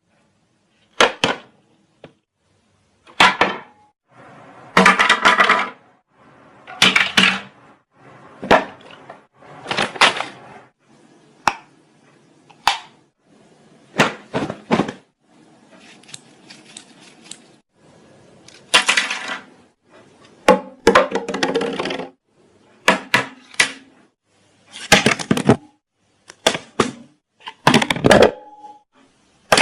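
A string of short cracks, clinks and clattering knocks, a separate burst every one to two seconds, a few of them with a brief pitched ring.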